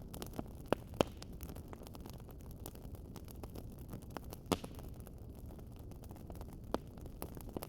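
Wood fire crackling in a fireplace: a steady low rush of burning with irregular small crackles and a few sharper pops, the loudest about four and a half seconds in.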